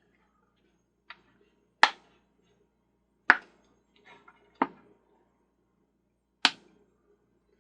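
A few sharp, separate clacks and knocks of hard plastic carousel parts and tools being handled and set down on a workbench, irregularly spaced. The louder ones come about two, three and a half, and six and a half seconds in.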